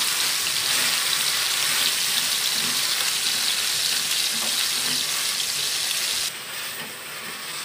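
Chicken sizzling as it stir-fries in a stainless steel wok over a gas flame, stirred with a spatula: a steady frying hiss with small crackles. About six seconds in, the sizzle drops abruptly to a quieter level.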